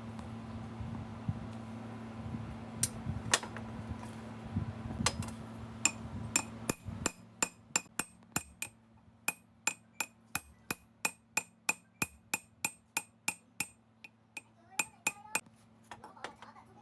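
Hammer striking metal: a few single blows at first, then a steady run of sharp ringing taps, about three a second. Under the first blows a steady machine hum runs and cuts off about seven seconds in.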